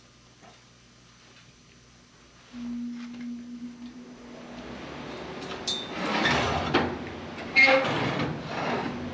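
Steel plate scraping and clanking against metal as it is shifted and flipped over, with sharp knocks about six and seven and a half seconds in. A short steady hum comes before it.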